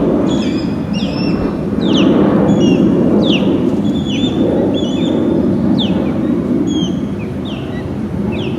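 Birds calling with short, high, downward-sliding chirps, over and over, above a steady, loud low rumble.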